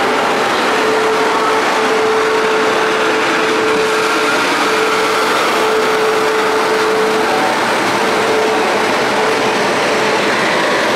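Passenger train rolling along a station platform: a loud, steady rush of wheel and rail noise with a steady whine that breaks off now and then.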